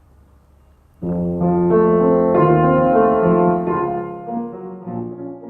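Piano played slowly, starting about a second in: held notes and chords that thin out and fade near the end.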